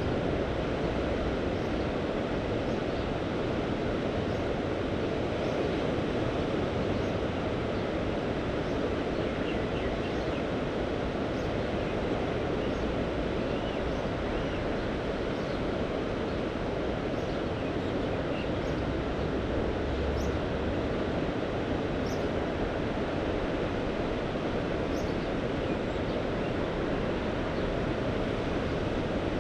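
Mediterranean sea waves washing on the shore: a steady rushing wash with no distinct surges, flecked with faint, scattered high ticks.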